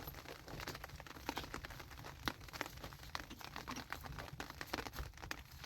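Irregular crackling and clicking, many small sharp ticks at uneven intervals over a low steady rumble.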